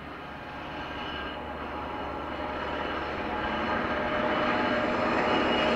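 Rail vehicle approaching on the tracks, growing steadily louder, with thin metallic ringing tones over the rumble of wheels on rail.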